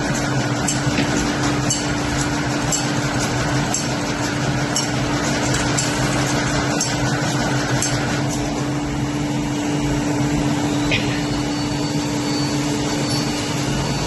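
Zahoransky Z.LION 5-axis CNC brush-making machine running: a steady hum with a regular click about once a second. About eight seconds in the clicking stops, and a few seconds later the hum changes to a high steady whine.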